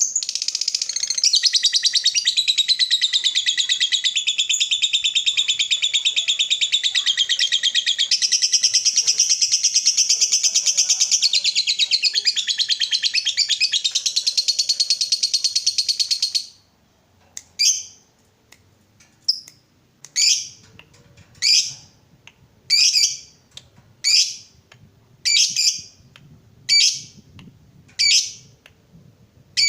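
Lovebird singing a long ngekek, a continuous rapid high chattering trill lasting about sixteen seconds. It then breaks off into a run of about ten short sharp calls, roughly one a second.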